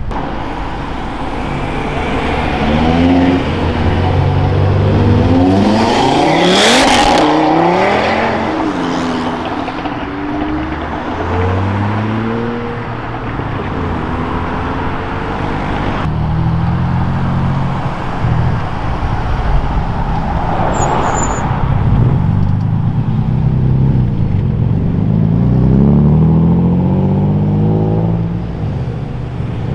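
Modified cars pulling away one after another, engines revving up through the gears with repeated rising pitch and drops at each shift. A harsh, noisy blast comes about seven seconds in.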